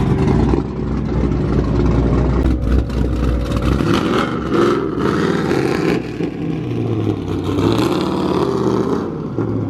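Car engine running, with the revs rising and falling briefly toward the end.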